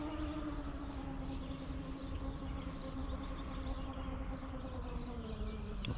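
Twin-motor electric RC catamaran running out on the water, a steady motor whine whose pitch eases slightly lower near the end.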